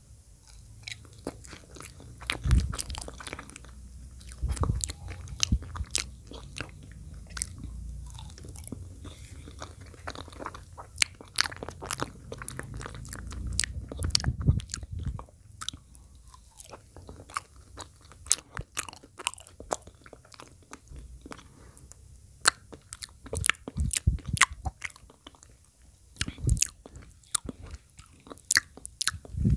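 Close-miked ASMR wet mouth sounds of someone eating: irregular sharp wet clicks and smacks of biting and chewing, with a few low thuds.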